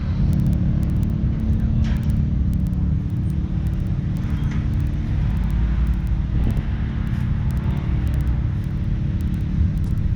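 Big-engined mega mud trucks running with a deep, steady rumble, not yet revved hard.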